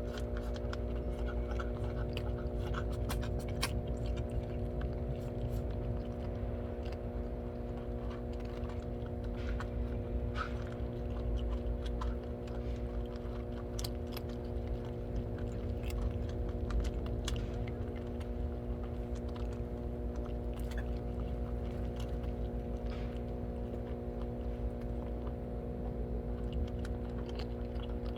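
Several cats chewing and crunching their food, with many small irregular clicks throughout, over a steady low hum.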